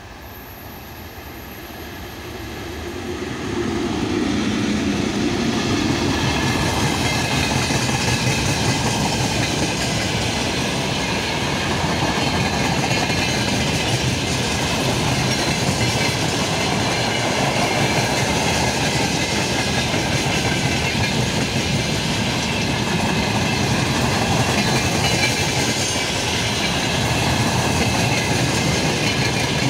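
VL80T electric locomotive approaching and passing, growing louder over the first few seconds. A long freight train of open gondola wagons follows, rolling by with steady wheel noise and clickety-clack over the rail joints.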